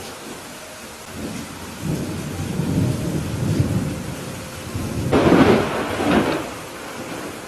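Steady rain with thunder. A low rumble builds about two seconds in, then a loud crack of thunder about five seconds in with a second peak a second later, fading back to the rain.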